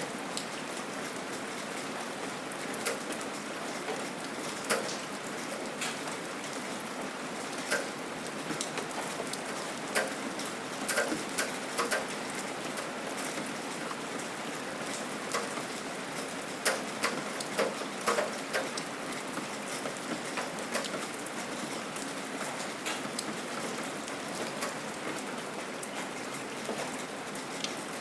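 Steady gentle rain, with individual drops striking a nearby surface in sharp taps now and then, in small clusters.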